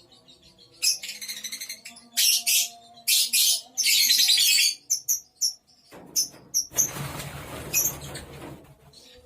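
Lovebirds in a colony screeching in four loud chattering bursts, then giving short separate chirps. Near the end comes about two seconds of rustling noise.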